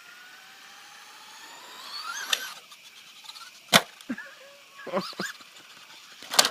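Traxxas Rustler RC truck's motor whining up in pitch as the truck speeds toward a jump, then a sharp hard-landing impact a little past halfway, with another sharp hit near the end.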